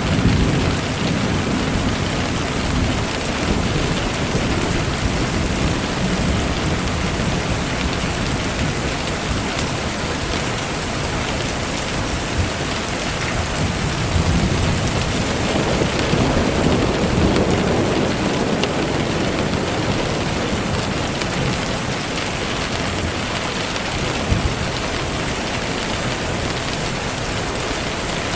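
Steady rain falling, an even hiss, with low rumbles of thunder rolling in near the start and again about halfway through.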